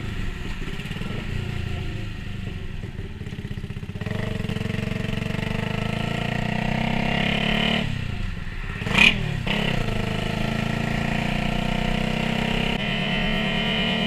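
Onboard sound of a Yamaha YZF-R125's single-cylinder engine running as the bike is ridden, its note shifting as the throttle changes. About nine seconds in the engine pitch dips and rises again around a brief, sharp, loud burst.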